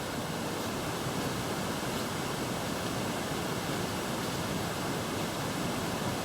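A steady, even hiss with no other sound in it.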